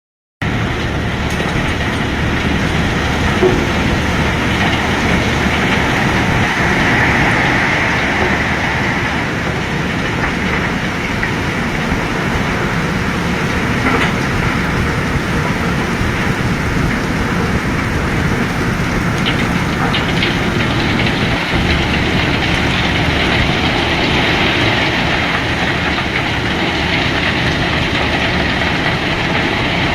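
Heavy machinery running steadily with a loud, constant noise, and a few faint knocks partway through.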